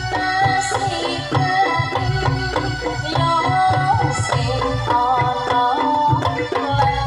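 Traditional Javanese jaranan/tayongan ensemble music: hand drums beating a quick, steady rhythm under a held, wavering melody line, with a short bright splash twice.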